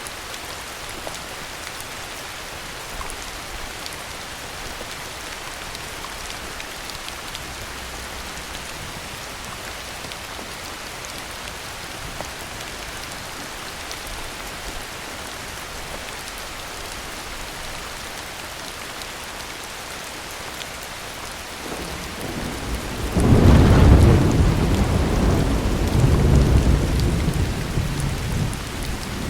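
Steady heavy rain falling, with a loud roll of thunder that builds about three quarters of the way through, rumbles deep and low for several seconds and slowly dies away.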